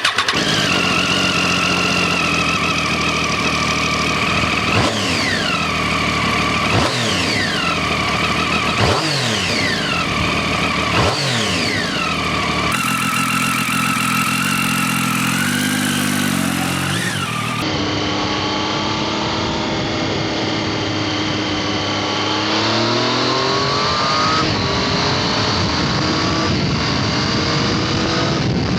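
Triumph Street Triple's inline three-cylinder engine through its exhaust: idling, then four quick throttle blips about two seconds apart, each revving up and falling back. After a cut the engine runs on the move, its pitch stepping down and then rising as it accelerates.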